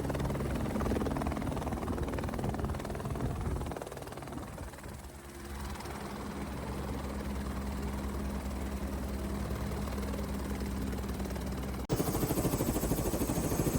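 Helicopter engine and rotor running steadily, a low hum made of several steady tones. About twelve seconds in it cuts abruptly to a louder, fuller helicopter noise.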